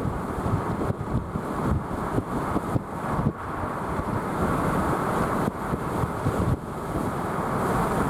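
Strong gusty outflow wind buffeting the microphone: a rough, uneven rumble that rises and falls with the gusts.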